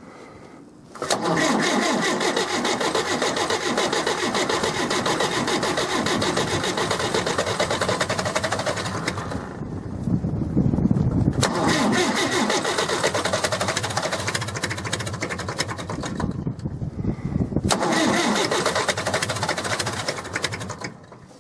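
International B-275 tractor's diesel engine being cranked over by its starter on a new battery in a cold-start attempt after the glow plugs: three long bursts of steady, fast, even cranking with short pauses between. It turns over strongly but does not catch, and more glow-plug heating is needed.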